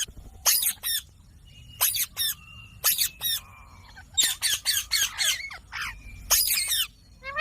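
Indian ringneck parakeet giving a series of short, sharp squawks with brief gaps, then a quick run of calls about four seconds in.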